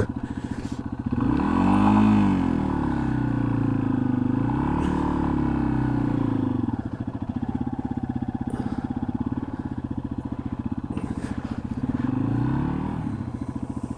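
A Yamaha XT250's single-cylinder engine running under way, its pitch rising and falling with the throttle. It climbs and drops about a second in and again around four seconds, runs steadier and lower through the middle, and rises once more near the end.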